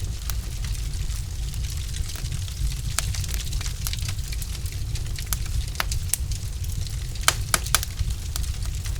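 Wood fire burning in a fireplace: a steady low rumble of the flames with irregular sharp crackles and pops from the logs, a quick cluster of pops near the end.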